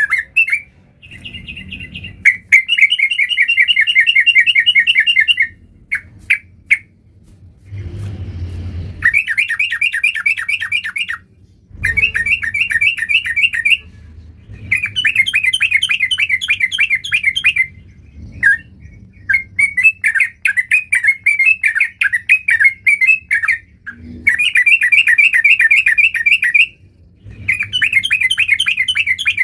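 Yellow-vented bulbul (trucukan) singing in repeated bursts of fast, bubbling notes, each phrase lasting two to three seconds with short pauses between them. A brief muffled noise comes about eight seconds in.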